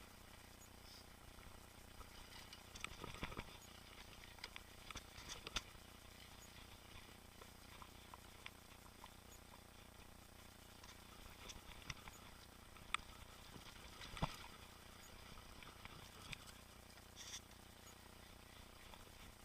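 Faint, scattered clicks and light rattles from a mountain bike being ridden over a trail, over a low steady hiss, with a few sharper knocks now and then.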